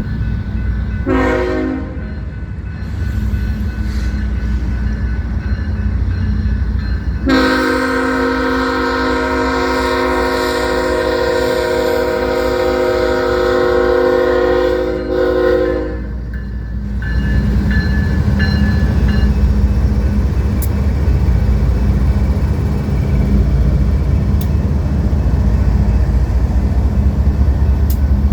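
Air horn of a BNSF freight train's lead diesel locomotive: a short chord blast about a second in, then a long blast held about nine seconds, over the low rumble of the approaching locomotives. After the horn stops the diesel rumble grows louder as the four-unit lashup draws level.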